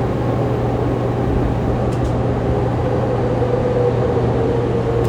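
Interior running noise of a Fukuoka City Subway 2000 series train, set 23 with a Hitachi late-type GTO-VVVF inverter, running between stations: a steady rumble and low hum. In the second half, a faint drive tone falls gently in pitch.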